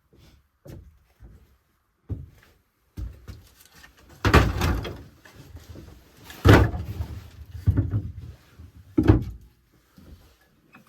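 A series of about seven heavy knocks and thumps, the loudest about four and six and a half seconds in.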